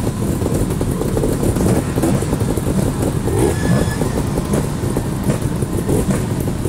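Trials motorcycle engine running, its pitch rising and falling as the throttle is worked.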